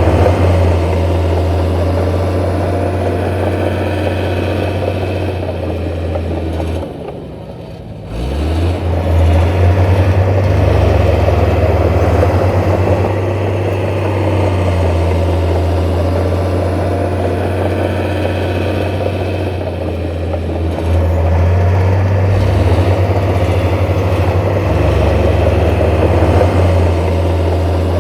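Heavy diesel engine of earthmoving machinery running steadily. It drops briefly and quietens about seven seconds in, then comes back at full level.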